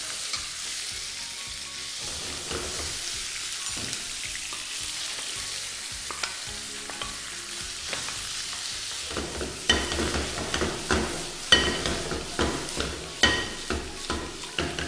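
Boneless chicken strips sizzling in hot oil in a frying pan, with a steady frying hiss. From about nine seconds in, a spatula clatters and scrapes against the pan as the chicken is stirred and tossed.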